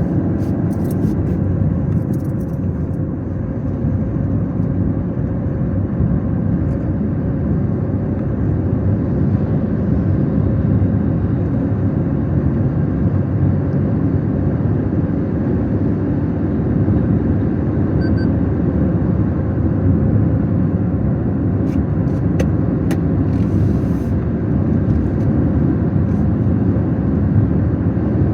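A car being driven: steady low rumble of engine and road noise, with a few short clicks about three quarters of the way through.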